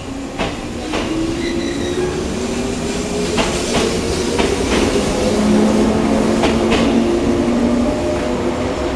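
JR 115 series DC electric train pulling away and gathering speed. Its traction motors hum in several tones that rise slowly in pitch, and the wheels clack over rail joints in quick pairs, growing louder.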